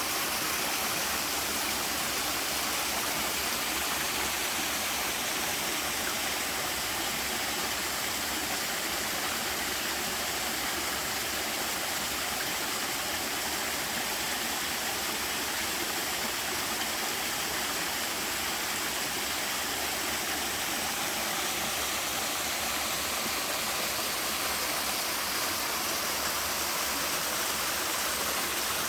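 Waterfall with a somewhat low flow, water pouring steadily into its pool: an even, unbroken rushing and splashing.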